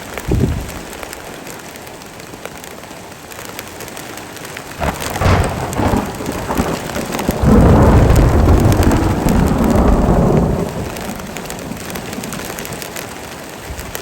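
Heavy rain falling steadily, with thunder: a crackle about five seconds in, then a loud low rolling rumble from about halfway through that dies away a few seconds later.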